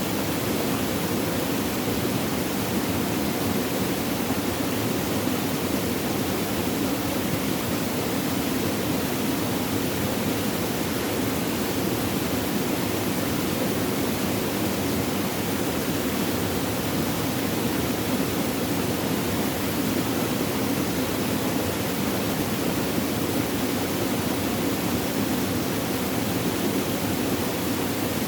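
Flowing water, a steady even rushing with no changes.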